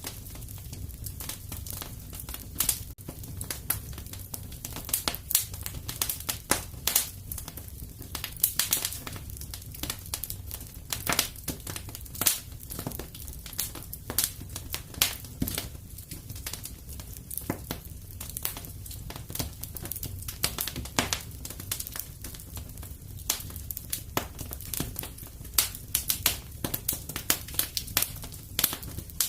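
Wood fire crackling and popping in a fireplace: a steady low rumble of the flames under frequent irregular sharp pops and snaps.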